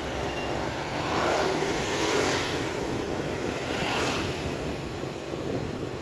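Steady engine rumble with a rushing hiss that swells twice, around two seconds and four seconds in.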